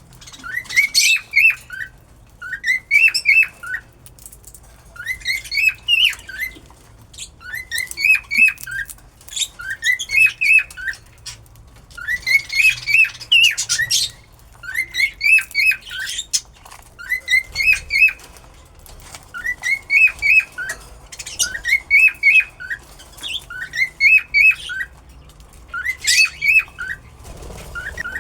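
A cockatiel chirping, repeating the same short phrase of three or four quick chirps about every two seconds.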